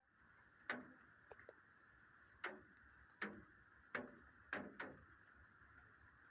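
Rainwater dripping: about half a dozen sharp, irregular drops tapping on a hard surface over a faint, steady hiss of rain.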